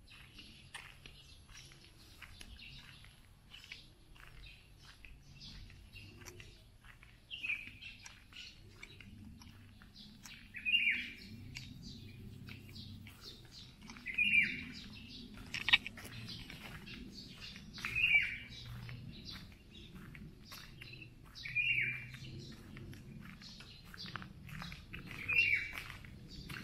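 A bird calling: one short chirp that drops in pitch, repeated about every three and a half seconds, over scattered faint clicks.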